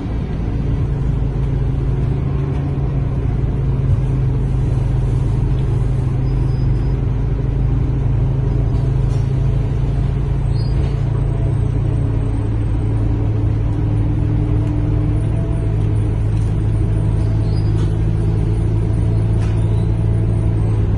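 Scania K230UB city bus engine running steadily while the bus is under way, heard from inside the passenger cabin. Its drone drops to a lower pitch a little over halfway through as the engine speed falls.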